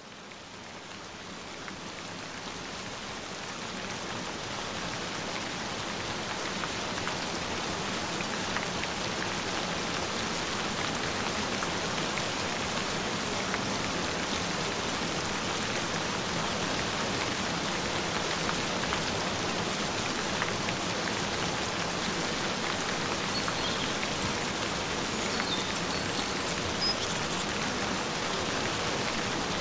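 Steady gentle rain falling, fading in over the first several seconds and then holding at an even level.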